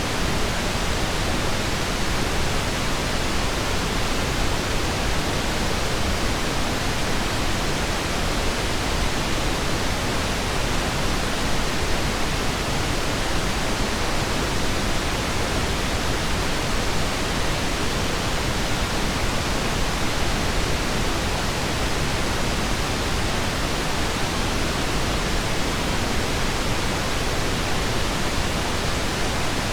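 Steady pink noise: an even, unbroken hiss spread across the whole range, with no tones, ticks or changes.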